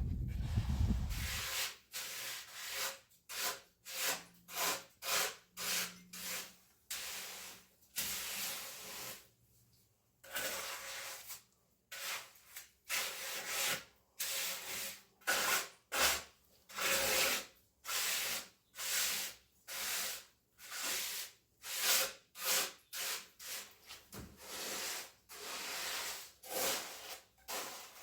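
Hand tool scraping or rubbing across a surface in repeated strokes, a little more than one a second, with a couple of short pauses.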